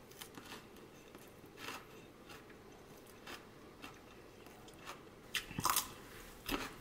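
Faint chewing and crunching of a lettuce wrap with cucumber, made of a scatter of soft crunches. A louder crunch comes about five and a half seconds in.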